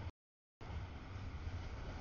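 Freight train cars rolling past a grade crossing: a steady low rumble with a hiss of wheel and track noise. The sound drops out to dead silence for about half a second just after the start, then returns.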